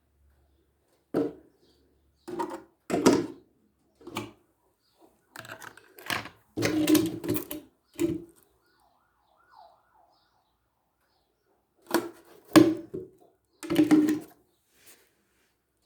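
Irregular knocks, clunks and short clattering of objects being handled, in two busier groups with silence between. No motor is running.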